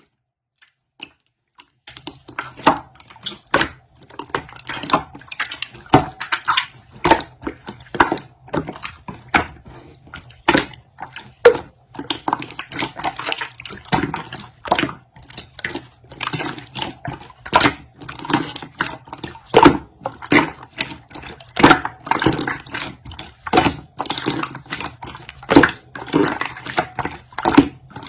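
Slime being squeezed and stretched by hand, making irregular sticky pops, clicks and squelches that start about two seconds in, over a faint low hum.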